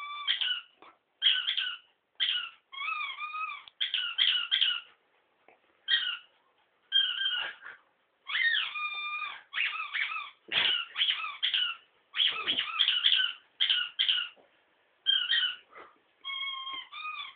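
A long series of short, high-pitched squeaks, one after another with brief gaps. Some are held on a steady pitch and others bend up and down.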